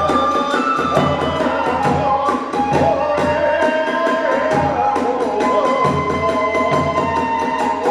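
Hiroshima kagura festival music: a transverse bamboo flute holds and bends a melody over steady drum beats, about two a second, with sharp clashing strokes of small hand cymbals.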